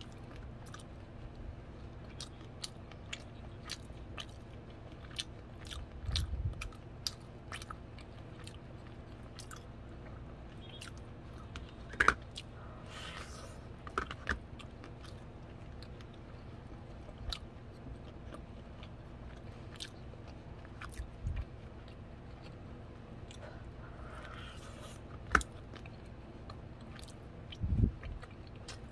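Biting and chewing of waxy corn on the cob: many sharp clicking crunches as kernels are bitten off, with a few low thumps.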